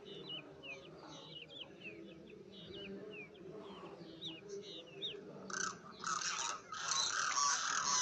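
Bird calls: a quick series of short, high, falling chirps, then from about five and a half seconds in louder, rougher calls that build toward the end.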